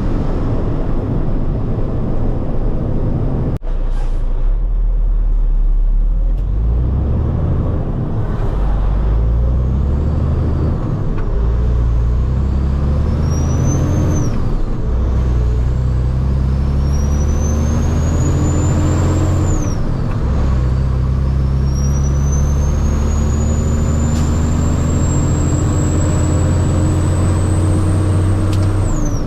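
Heavy diesel truck engine pulling up through the gears: the revs climb and drop back at each shift, about three pulls. A high turbo whistle rises with the revs on each pull.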